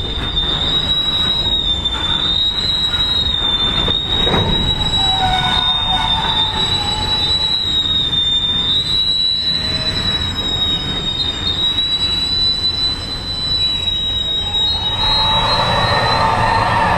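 Freight cars of a passing freight train rolling by on steel rails, with a loud, steady high-pitched wheel squeal that wavers slightly in pitch over a low rumble. A second, lower squeal joins near the end.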